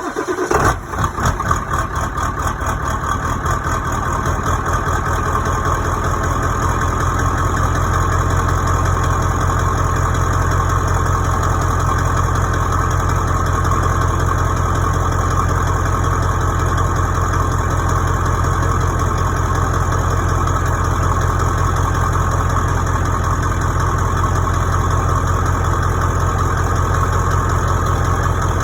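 Ford 7.3 Power Stroke turbo-diesel V8 in an F350, just fired on a cold start near freezing after glowing the plugs: it runs unevenly for the first second or two, then settles into a steady idle.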